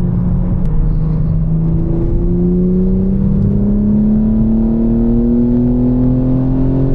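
BMW M4 Competition's twin-turbo inline-six running under way. Its pitch steps up about two seconds in, then climbs steadily as the car accelerates.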